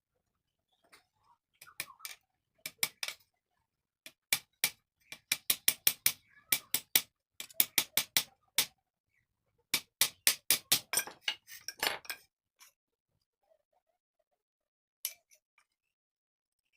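Hammer tapping small nails into a wooden bird ladder: a run of sharp, quick knocks in groups, about two to four a second, stopping about three quarters of the way through, with a last short cluster of taps near the end.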